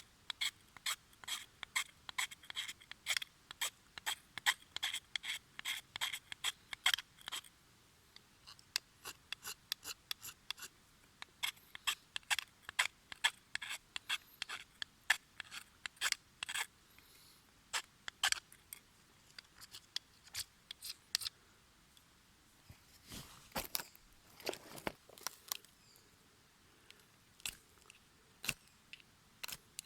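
Wood fire crackling: an irregular run of sharp snaps and pops, with a denser, fuller patch about three-quarters of the way through.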